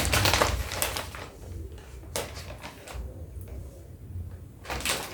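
Snack packets being handled: short bursts of plastic crinkling and rustling with light knocks, a cluster in the first second, another around two seconds in, and more near the end.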